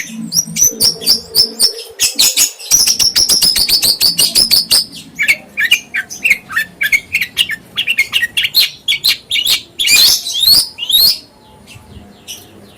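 A songbird singing loudly in rapid runs of short, high chirps and trills, with sliding notes in the middle. It grows harsh and loudest about ten seconds in and breaks off about a second later.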